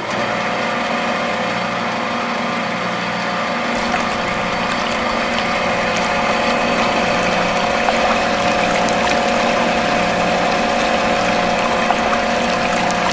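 Small electric motor of a homemade mini water pump running steadily and pumping water, a constant hum that starts abruptly at the outset.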